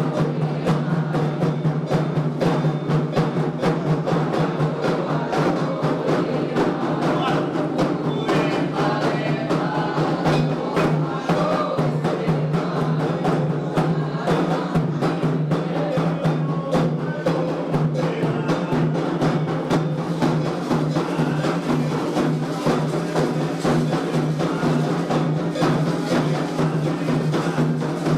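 Candomblé xirê drumming: atabaque hand drums and a struck percussion part playing a dense, steady rhythm without a break.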